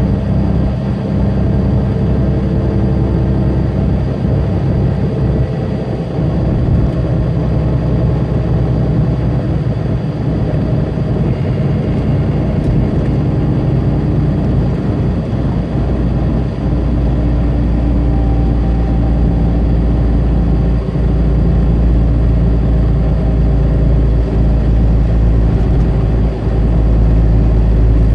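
Tractor-trailer's diesel engine running under way, with road and tyre noise. The engine's hum shifts in pitch from time to time and grows heavier in the last few seconds.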